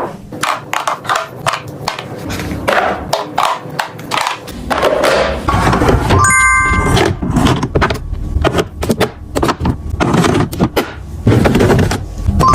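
Repeated knocks, taps and clatter of containers and packaging being handled and set down while a refrigerator is stocked, with a short bright ringing clink about six seconds in.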